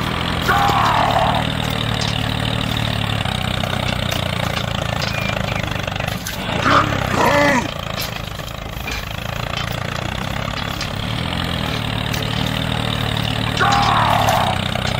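A tractor engine running steadily under load. Short falling voice-like calls break in about half a second in, around seven seconds in and near the end.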